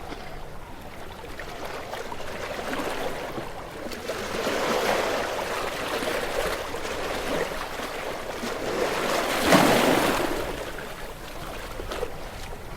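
Gentle sea waves washing onto a shore, a steady rushing wash that swells and recedes, with the loudest wave breaking about three-quarters of the way through.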